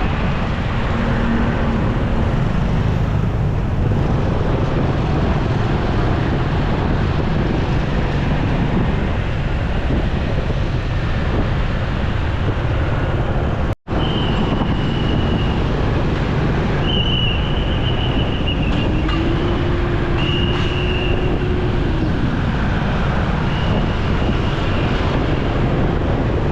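A motorcycle ride in traffic: a steady rush of wind and road noise over the running engine. It breaks off briefly halfway through, and a few short high tones sound in the second half.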